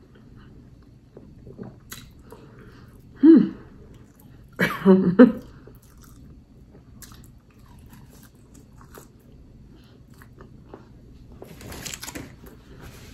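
Close-up chewing of soft, slightly soggy crinkle-cut french fries, with faint mouth clicks. There are brief murmurs from the eater about three and five seconds in.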